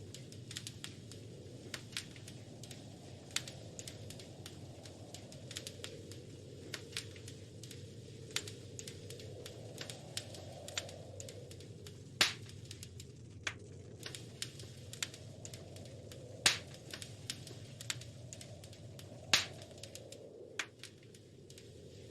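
Wood fire crackling in a fireplace: irregular small pops and snaps over a soft, steady rush of flame, with three louder pops in the second half.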